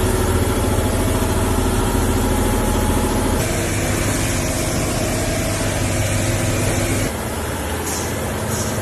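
A vehicle engine idling steadily, its hum changing abruptly about three and a half seconds in and again about seven seconds in.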